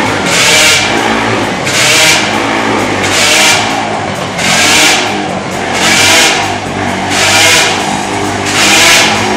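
Motor vehicle engine running with a steady hum, under a rushing hiss that swells and fades regularly, about every second and a half.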